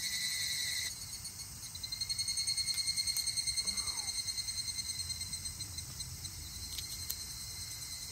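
Summer night chorus of calling insects: a steady, pulsing high trill, with a few faint clicks.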